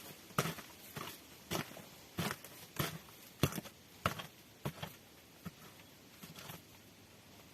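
A series of short, sharp knocks or taps, roughly one every half second, thinning out and fading after about five seconds.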